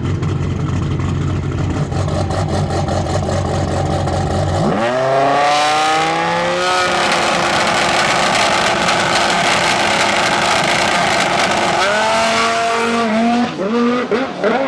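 Drag race cars held at a steady engine note on the starting line, then launching about five seconds in: a loud full-throttle run with engine pitch climbing and breaking at each gear change. Near the end the engines come off the throttle with a few short revs.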